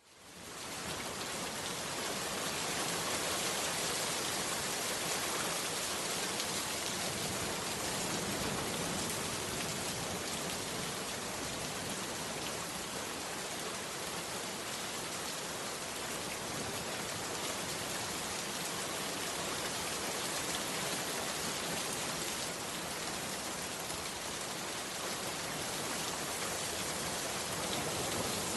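Heavy rain falling in a steady downpour, fading in over the first second.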